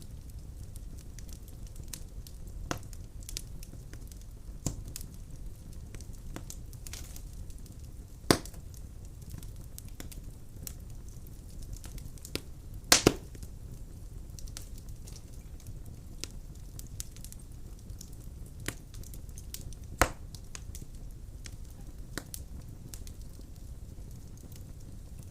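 Wood fire burning in a fireplace: a steady low rumble of flames with scattered sharp crackles and pops from the logs, including a few louder pops and one quick double pop about halfway through.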